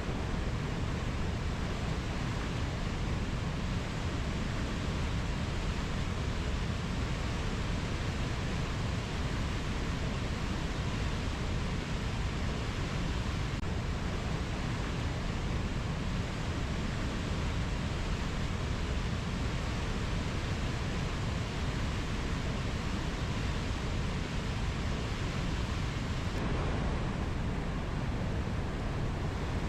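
Steady, even rushing of water with no distinct animal calls.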